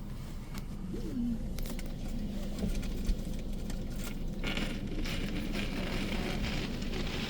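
Belanger Kondor KL2 touchless car wash running, heard from inside the car: a steady low drone of the machinery, with a hiss of water spray starting about halfway through.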